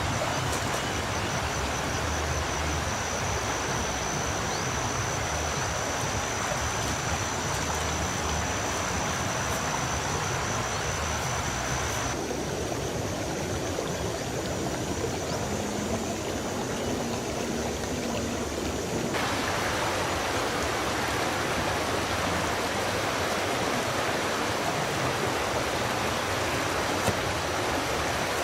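Steady rushing of flowing water. A thin, high, steady whine runs over it for the first twelve seconds. The sound changes abruptly at about twelve and again at about nineteen seconds.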